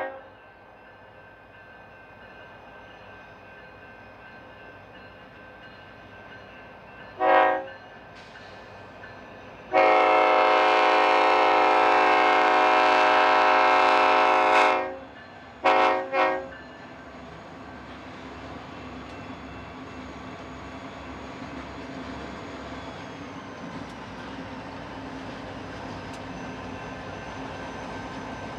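Air horn of a pair of EMD F40PH diesel locomotives sounding a multi-note chord: one short blast, a long blast of about five seconds, then two quick short blasts. After the horn, the rumble of the diesels grows steadily louder as the train approaches.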